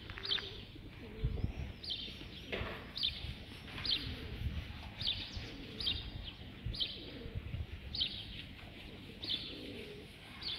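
A small bird repeating a short, falling chirp about once a second, with faint pigeon cooing underneath.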